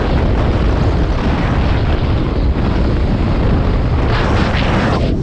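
Wind buffeting the microphone over the rumble of a vehicle moving at speed: a loud, steady rush that eases off near the end.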